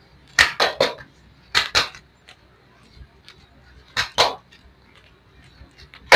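Hands slapping bare, oiled legs in quick groups of two or three sharp smacks, as in a percussive massage stroke, four groups in all.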